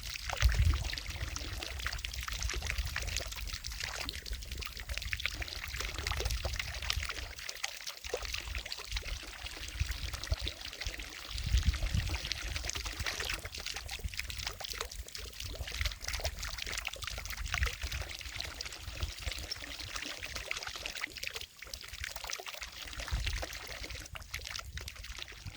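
Water from a fountain falling and splashing into a lake: a steady splashing hiss, with uneven low rumbles that swell briefly three times.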